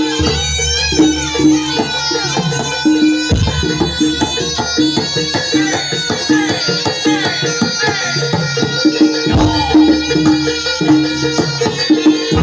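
Live Javanese barongan accompaniment: a loud reed wind instrument playing a repeated melody over drums and struck percussion.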